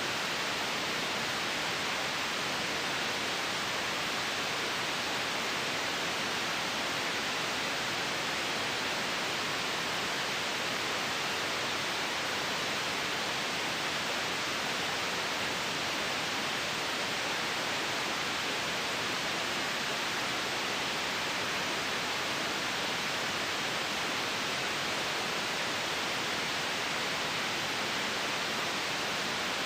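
Continuous white noise: a steady, even hiss, brightest in the upper range and thin in the bass, with no change in level.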